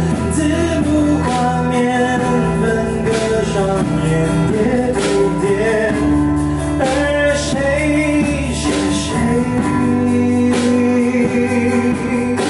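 A man singing a Mandarin pop song over instrumental accompaniment, the voice carrying a moving melody above steady chords and bass.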